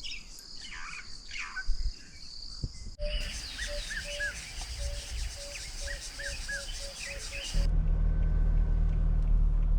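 Bush ambience: birds chirping over a steady, high insect trill, with a repeated short low note for a few seconds. About three-quarters of the way through it cuts to a vehicle engine running with a steady low hum.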